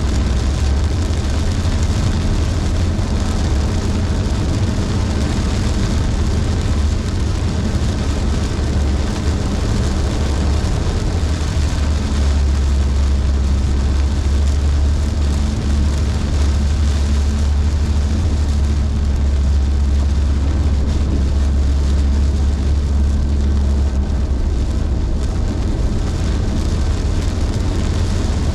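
A car driving in heavy rain: a steady low drone of engine and road noise, with an even hiss of tyres on wet pavement and rain.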